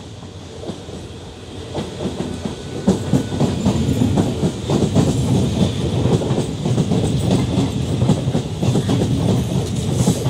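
Passenger coaches of the departing Howrah–Mumbai Mail express rolling past close by, wheels clattering steadily over the rail joints. The clatter builds from about two seconds in and stays loud.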